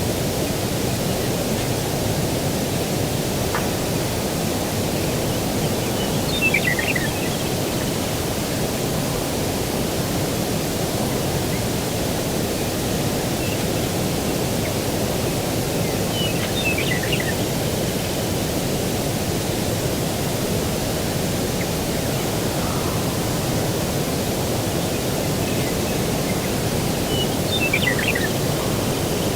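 Steady low rushing outdoor ambience of breeze and distant surf, with a small bird giving a short chirping phrase three times, about ten seconds apart.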